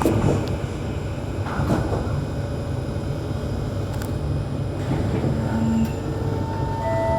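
SMRT C151 metro train running along the track, with a steady low rumble and a few sharp clicks from the wheels and rails. Some steady tones join in near the end.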